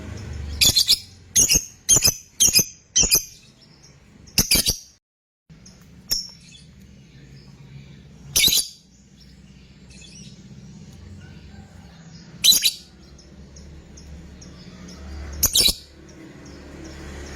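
A lovebird giving short, shrill 'fighter' chirps. First comes a quick run of five, about half a second apart, then single calls every two to four seconds. A low hum runs underneath.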